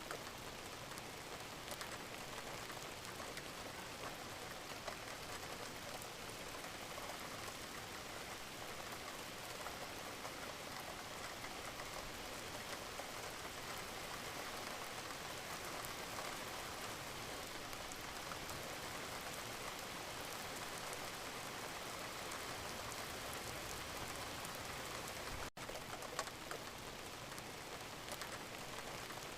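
Wood fire in a fireplace crackling and hissing steadily, with a dense patter of small pops. There is a momentary gap in the sound about 25 seconds in.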